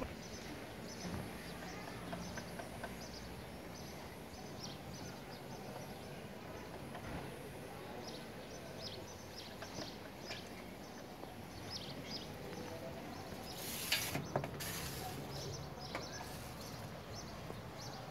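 Small scattered clicks and ticks of hands and tools working on an air-conditioner unit during cleaning, over low steady background noise, with a short hiss about fourteen seconds in.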